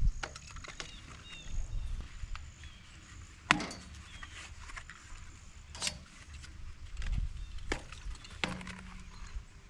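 Scattered knocks and clunks of hard objects being handled, the sharpest about three and a half seconds in, over a low rumble.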